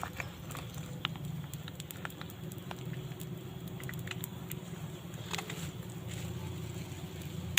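Banana blossom cooking in a pan with a little water over a fire: a steady low rumble with scattered small pops and crackles.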